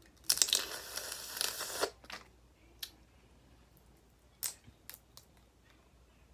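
Crackling of a boiled crawfish shell being cracked and peeled apart by hand, lasting about a second and a half near the start, then a few single small cracks.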